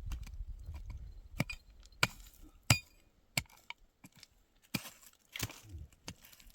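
A series of separate sharp knocks or chops, about six spaced roughly a second apart, the loudest a little under three seconds in.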